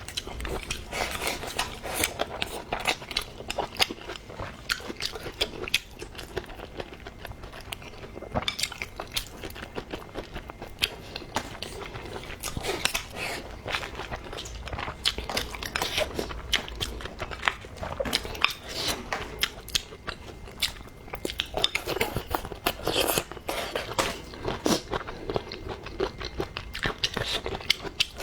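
Close-up eating sounds: a person biting and chewing food, many quick, irregular mouth clicks running without a break.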